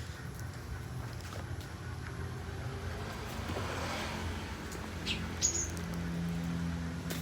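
Aviary birds giving a couple of short, high chirps about five seconds in, over a steady low rumble like distant traffic.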